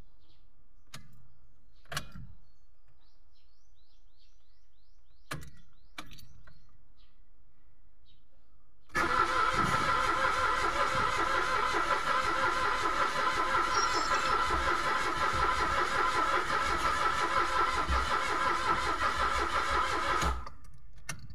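A few clicks, then a Mitsubishi Mirage's starter motor cranking the engine for about eleven seconds. It cuts off abruptly without the engine catching, the cranking-but-won't-start condition of a fuel-delivery fault the mechanic is tracing to the fuel pump.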